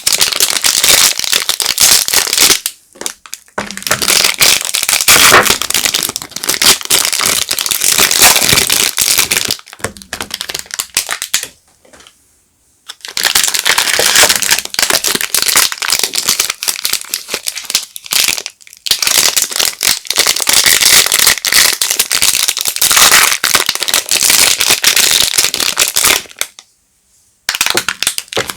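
Soap packaging being unwrapped by hand: dense, crisp crinkling and crackling of the wrapper, stopping briefly a few times.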